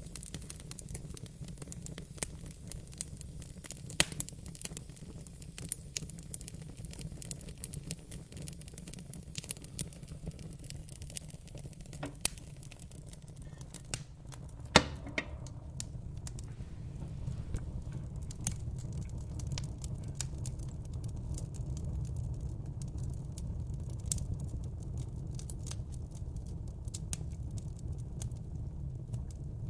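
Wood fire crackling and popping over a low steady rumble of flames, with scattered sharp snaps; the loudest pops come about 4, 12 and 15 seconds in.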